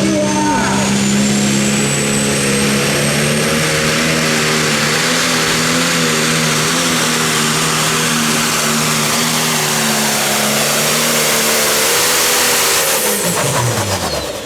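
Turbocharged diesel Pro Stock pulling tractor running at full power under load, with a high turbo whistle rising over the first few seconds. Near the end the engine lets off and its pitch drops away quickly.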